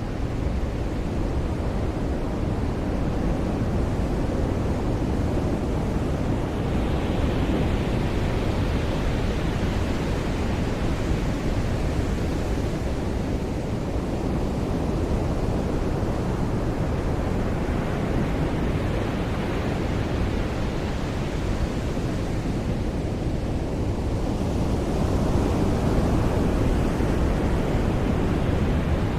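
Ocean surf washing onto a beach: a steady rush of water. Waves break and hiss louder about a quarter of the way in and again near the end.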